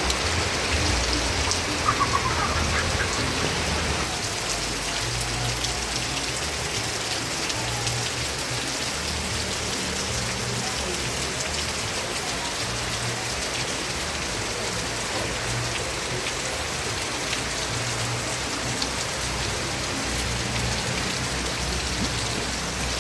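Steady rain falling, a constant hiss with fine patter of drops and an uneven low rumble underneath.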